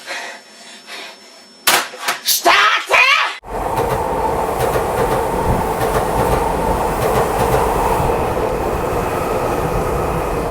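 A train running on the rails: a loud, steady rumble with a constant drone. It cuts in suddenly about three and a half seconds in, after a few seconds of shouting.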